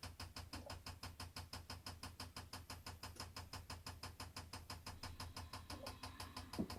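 Steady, rapid ticking, about eight ticks a second, over a low steady hum, from a small machine running at an even pace.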